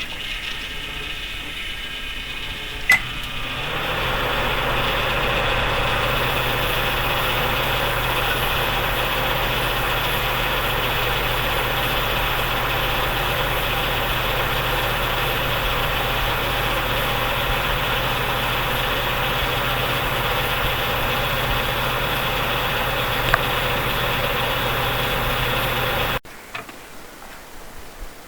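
An electric motor in a mains-powered appliance running with a steady hum and whine. It builds up over the first few seconds and then cuts off sharply near the end.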